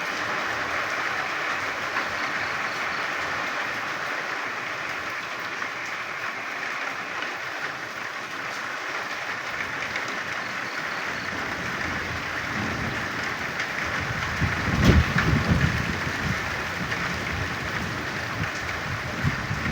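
Steady rain with a dense chorus of frogs calling. From about two-thirds of the way in, low gusty rumbling of wind on the microphone joins in, loudest a little past the midpoint of that stretch.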